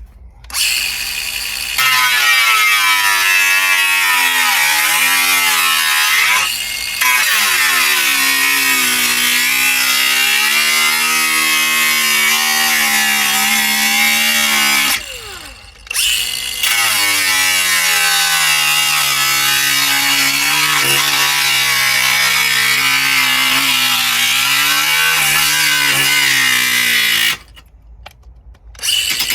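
Cordless angle grinder cutting a patch out of sheet steel, its motor pitch sagging and recovering as the disc bites. It stops twice, about halfway and near the end, then starts again.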